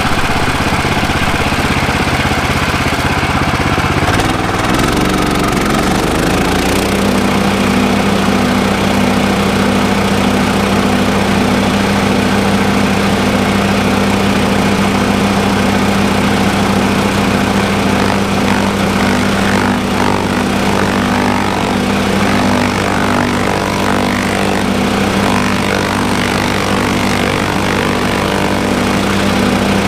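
Yardbeast 2090 chipper-shredder's gas engine running under load as cardboard is fed into the shredder; its pitch shifts about five seconds in, then holds steady.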